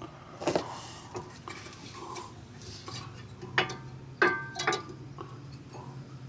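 Metal tools and brake parts clinking and knocking during a front brake job. There are scattered sharp knocks, with a cluster about four seconds in that rings briefly, over a low steady hum.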